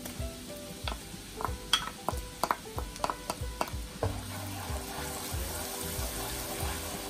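Grated ginger sizzling in melted butter in a nonstick wok while a wooden spoon stirs it. A run of sharp knocks from the spoon comes in the first few seconds, and after about four seconds the frying settles into a steadier hiss.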